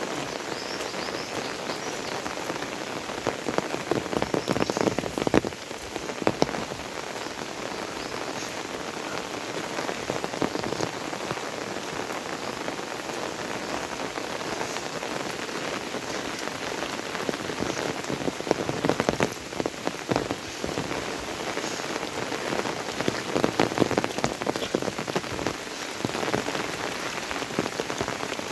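Steady rain falling, with many close, sharp drop impacts in it. The rain swells louder for a couple of seconds a few times: about four seconds in and twice in the last third.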